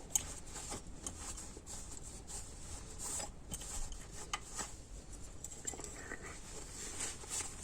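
Faint, scattered clicks and light rubbing of small metal parts being handled while a lever is fitted into an automatic transmission's valve body.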